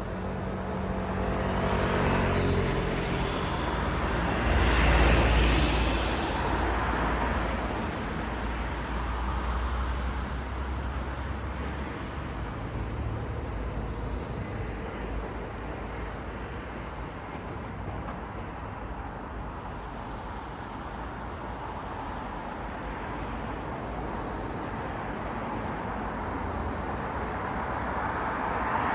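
City road traffic: cars passing one after another over a steady rumble of traffic, the loudest pass about five seconds in and another building near the end.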